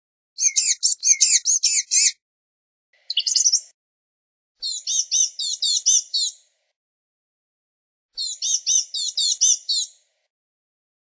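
Blue-gray gnatcatcher vocalizing: four short phrases, each a fast run of thin, high, squeaky notes, with pauses between them.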